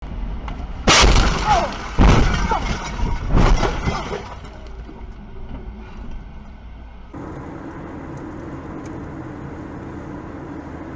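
Car crash: three loud impacts about a second apart, each with crunching and ringing, dying away after the third. Steady vehicle running noise follows after an abrupt change.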